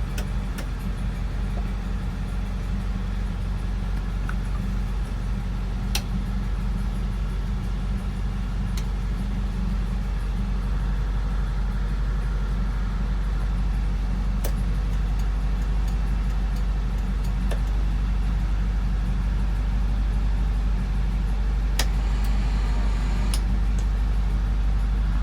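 1966 Volkswagen air-cooled flat-four engine idling steadily shortly after a cold start, getting slightly louder over time, with a few sharp clicks.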